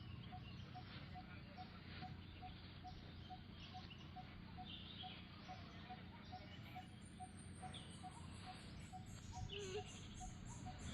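Faint outdoor ambience: scattered bird chirps and a soft note repeating about two to three times a second, joined past the middle by a high, fast pulsing sound.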